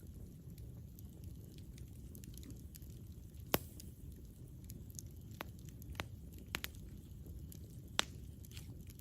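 Campfire burning with a low steady rush and scattered sharp pops and crackles of wood, the loudest pops about three and a half seconds and eight seconds in.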